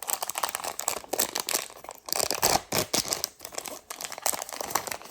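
Plastic blind-bag packaging being torn open and crinkled by hand, in a run of irregular crackles and rips.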